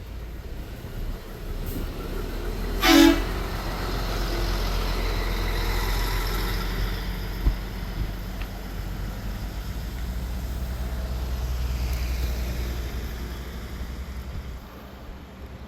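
Tour van driving along with a steady low engine and road rumble, and one short horn beep about three seconds in.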